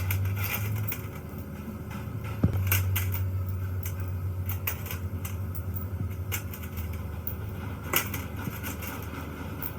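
Workshop noise during compressor repair work: a steady low hum under scattered light clicks and knocks, with a sharper knock about two and a half seconds in and another near eight seconds.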